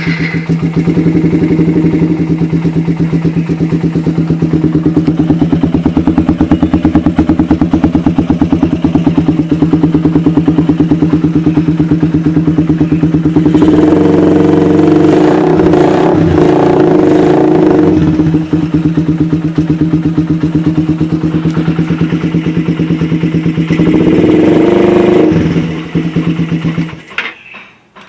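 Suzuki Satria FU motorcycle with an aftermarket Elmer exhaust, idling with a loud steady pulse, revved up twice (one longer spell about halfway through, a short one near the end), then shut off shortly before the end.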